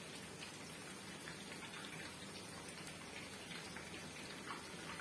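Eggplant slices frying in hot oil in a pan: a steady sizzle with scattered small crackles.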